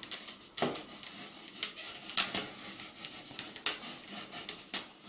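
Rubber balloon rubbed quickly back and forth on a child's hair, an irregular run of scratchy rubbing strokes, charging the balloon with static electricity.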